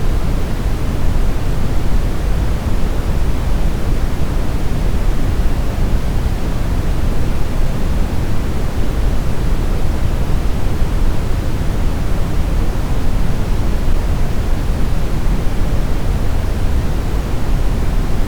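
Steady, smoothed brown noise: a deep, even rumble with most of its energy in the bass and little hiss at the top, unchanging throughout.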